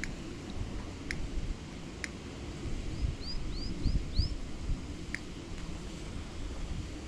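Wind buffeting the microphone in a low rumble, with a small bird calling over it: single sharp chips every second or so, and a quick run of four chirps about three seconds in.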